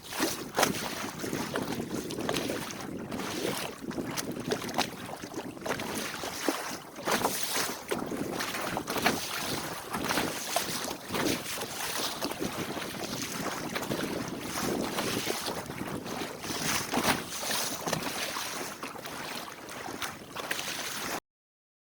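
Wind buffeting the microphone over water rushing and splashing along the hull of a small sailboat under way, gusting up and down without any engine running. The sound cuts off suddenly near the end.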